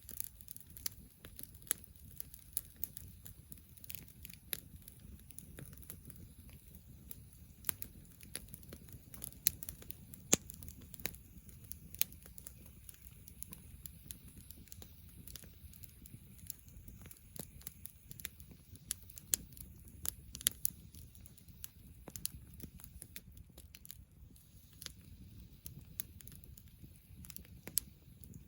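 Wood campfire crackling, with many sharp irregular pops and snaps over a low steady rumble.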